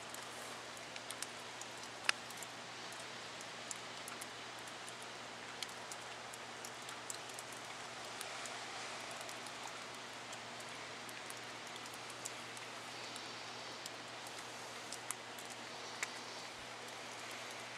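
Steady rain falling, with single drops ticking sharply every so often; the loudest tick comes about two seconds in.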